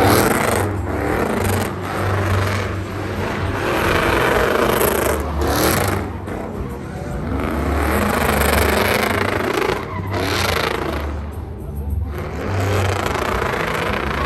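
Truck engines revving over a music track with a steady pulsing bass.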